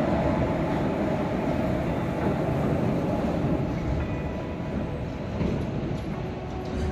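A train running on the tracks close by: a steady rumble of wheels and wagons.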